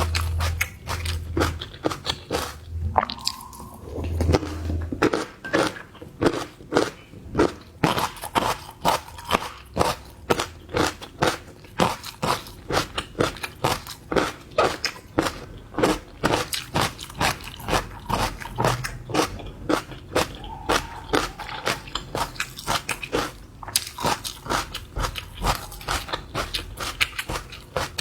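Close-miked eating of seafood: a steady run of crisp crunches and wet chewing clicks, about three a second, without pause.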